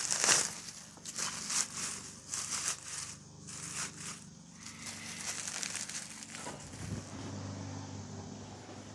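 Dry material being crumpled and crinkled in a run of short bursts, then a low steady hum from about seven seconds in.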